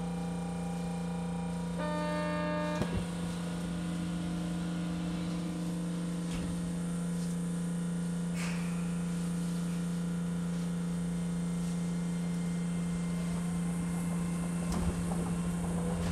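Osaka New Tram automated guideway train standing at a station with a steady electrical hum from its onboard equipment. About two seconds in, a short electronic buzzer tone sounds for about a second and ends in a sharp click. Near the end a faint rising whine sets in as the train pulls away.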